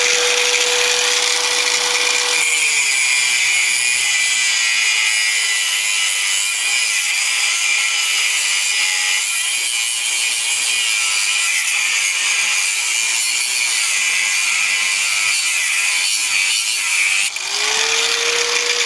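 Harbor Freight 4-inch angle grinder cutting through a piece of steel. The motor's hum drops in pitch as the wheel bites and a harsh grinding hiss runs for about fifteen seconds; near the end the pitch climbs back as the cut finishes and the wheel runs free.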